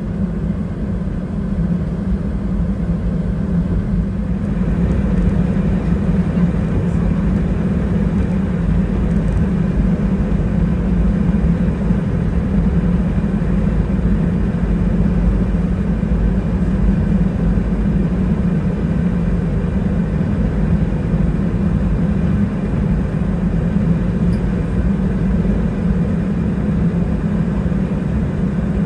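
Cabin noise of an Airbus A320-212 taxiing after landing: a steady low rumble from its CFM56 engines running near idle, heard through the fuselage, growing a little louder about four seconds in as thrust is added.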